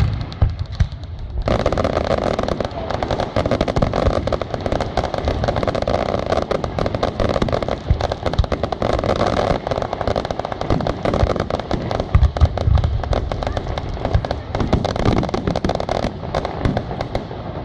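Aerial fireworks display: a dense run of rapid crackling with low booms underneath, starting about a second and a half in and easing slightly near the end.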